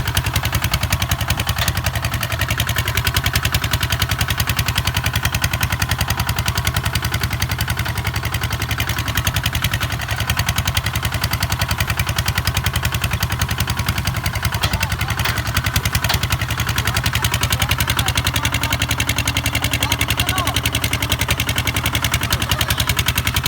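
Kubota ZT 155 DI single-cylinder diesel tractor engine running steadily, its exhaust pulsing in a fast, even beat.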